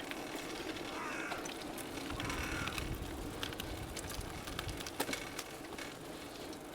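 Steady rolling noise of a bicycle ride, with scattered clicks and rattles and a sharper click about five seconds in. A bird calls briefly twice, about one and two and a half seconds in.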